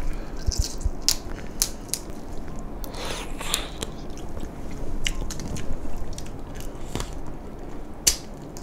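Close-up eating of shell-on mala-sauced crayfish: crunching and chewing, with many short sharp cracks of shell scattered throughout. The loudest crack comes a little before the end.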